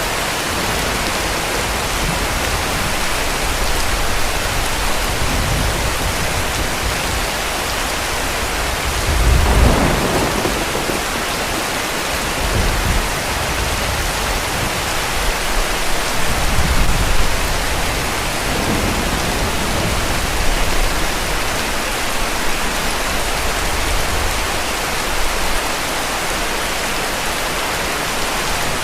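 Steady heavy rain with rolls of distant thunder, the loudest about ten seconds in and lighter rumbles after it.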